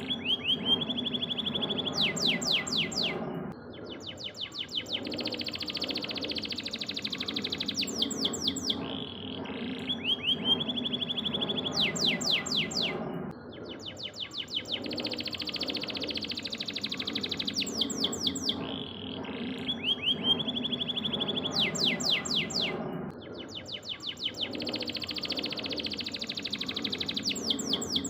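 Domestic canary singing a long song of rapid sweeping trills and held whistled notes, its phrases repeating in a regular cycle, over a steady low hum.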